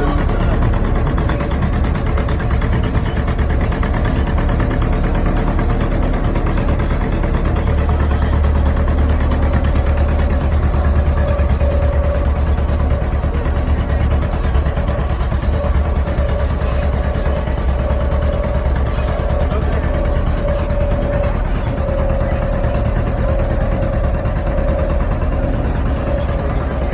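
Tractor engine running steadily while pulling a passenger trolley: a continuous low rumble with a thin steady whine that grows more prominent partway through.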